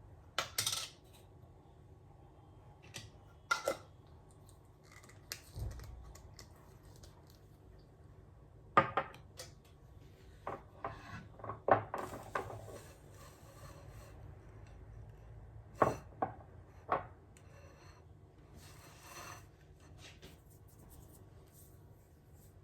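Small objects being handled: scattered sharp clicks and knocks at irregular intervals, with a quick run of them about halfway through and a brief rustle near the end.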